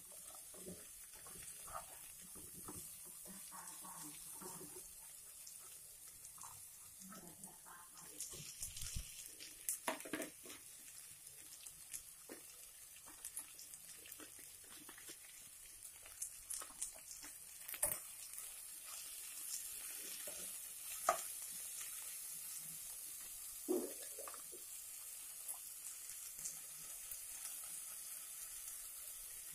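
A stir-fry of oncom, dried anchovies, red chillies and genjer greens sizzling faintly in a non-stick wok, with occasional sharp clicks and knocks from stirring.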